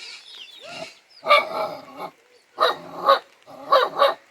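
Dog barking five times: a single bark, then two quick pairs of barks.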